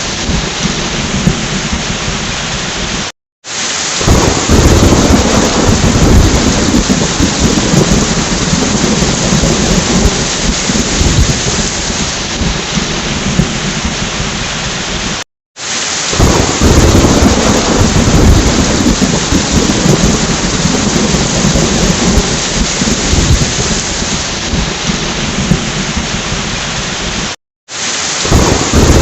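Heavy rain falling steadily with thunder rumbling low beneath it. The sound cuts out for a moment three times, about every twelve seconds.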